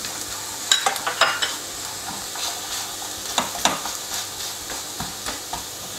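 Mashed ripe nendran banana and cashews frying in ghee in a nonstick pan. The pan sizzles steadily while a wooden spatula stirs through the mash, with irregular scrapes against the pan.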